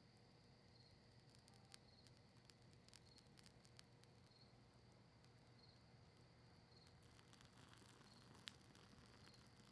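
Faint wood campfire crackling, with scattered small pops and one sharper pop near the end. A cricket chirps steadily underneath, about once a second.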